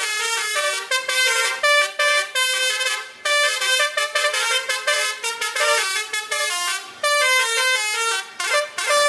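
Truck basuri horns, a set of musical air horns, playing a fast melody of short stepping notes, with brief breaks about three seconds in and again about seven seconds in.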